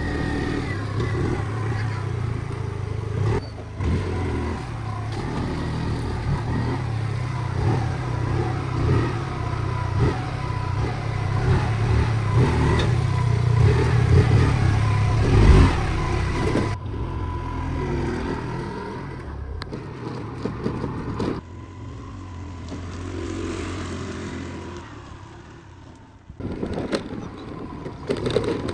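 Diesel engine running under load, its pitch rising and falling with the throttle, with some scraping and clatter. The sound drops and changes abruptly a few times, about two thirds of the way in and again near the end.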